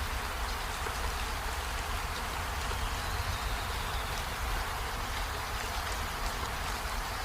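Steady rainfall, an even hiss of drops with a low rumble underneath. A faint, high, steady whine comes in about halfway through.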